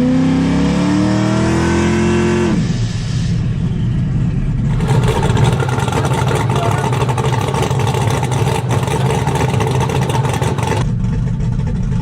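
A vehicle engine revving hard under acceleration, its pitch climbing for about two and a half seconds before dropping away. A steady low engine rumble follows.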